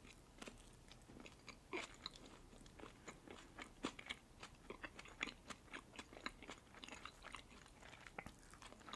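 Faint close-miked chewing of a red caviar sandwich on bread: soft, irregular wet mouth clicks and smacks.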